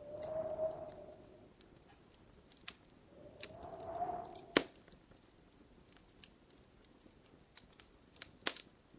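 Wood fire crackling in a fireplace, with scattered sharp pops and one loud crack about halfway through. Twice a short whistling hiss swells and fades, once at the start and again just before the loud crack.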